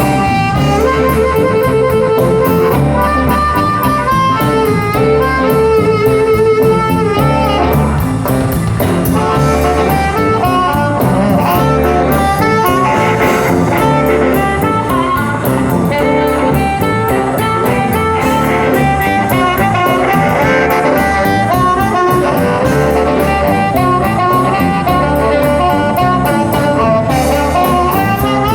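Live blues band playing an instrumental passage: electric guitar over bass and a steady drum beat, with long held lead notes.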